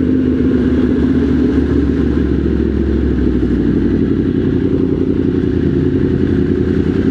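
Motorcycle engine running steadily at low, constant revs, its pitch barely changing.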